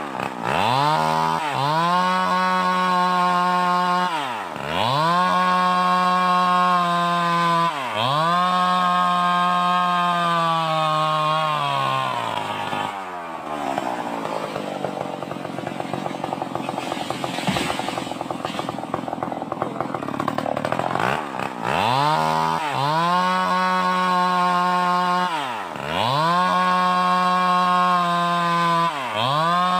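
Stihl 038 two-stroke chainsaw running at high revs, its pitch dropping sharply and climbing back several times as the throttle is eased and reopened. In the middle it runs for several seconds at a lower, rougher pitch, as if held down under load.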